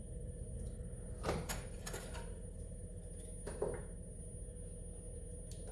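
A few short metal clinks and knocks of a wrench working loose a snowmobile engine mount bolt, over a low steady hum.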